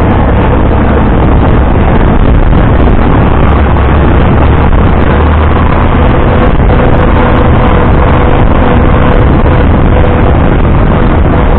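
Vintage tractor engine running steadily and loudly, with a heavy low rumble and an unchanging pace.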